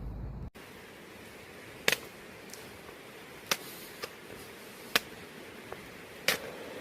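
A low rumble that cuts off suddenly about half a second in, then faint hiss with about five sharp, scattered clicks or taps.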